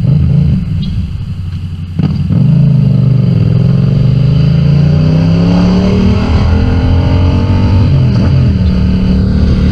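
Motorcycle engine under way: quieter for the first two seconds, then the throttle opens sharply and the engine note climbs steadily in pitch for several seconds before levelling off near the end.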